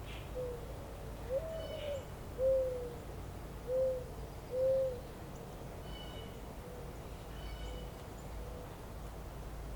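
A bird's low hooting calls: five soft notes at one pitch over about four seconds, the second longer and a little higher, then fainter repeats. Faint high chirps of a small bird come in a little past the middle, over a steady low rumble of outdoor background noise.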